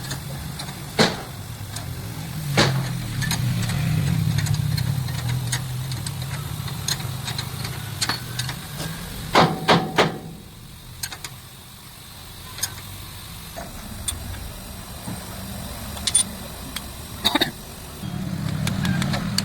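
A truck engine running at idle, fading out about halfway through and coming back near the end, with occasional sharp metal knocks, a quick run of three just before the engine fades.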